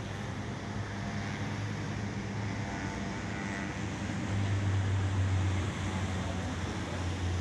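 Wind buffeting the microphone in a steady low rumble that swells about halfway through, with the faint drone of a radio-controlled model plane's electric motor and propeller.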